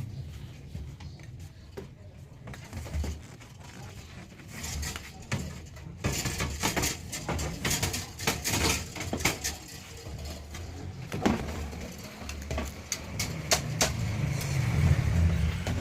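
Repeated clicks and clattering knocks, much denser from about six seconds in, over a steady low rumble that grows louder near the end.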